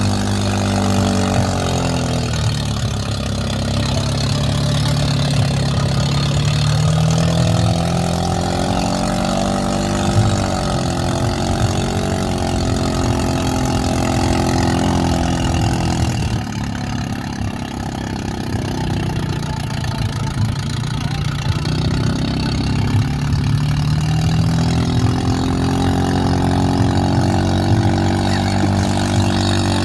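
Mahindra 575 DI tractor's four-cylinder diesel engine running, its pitch dipping and rising again several times as engine speed changes.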